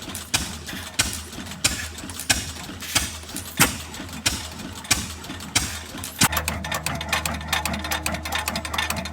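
Antique stationary engine running with a slow, even beat of strokes, about three every two seconds. About six seconds in, this gives way to a faster-running engine with rapid clicking over a steady low hum.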